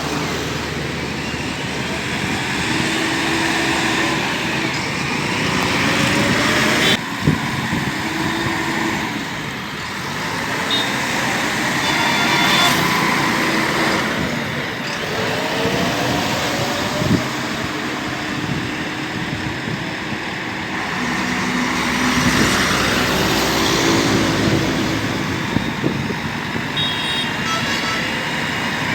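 Heavy diesel vehicle engines running, their pitch rising and falling as they rev, with an abrupt change about seven seconds in.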